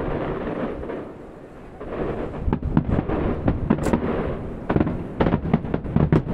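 Aerial firework shells bursting: a low rumble for the first second eases off, then about two seconds in comes a rapid, dense series of sharp bangs and cracks.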